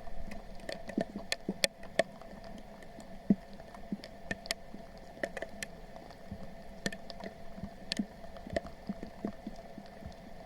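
Footsteps squelching and splashing through shallow water and wet mud, with irregular sharp clicks and splashes, over a steady faint hum.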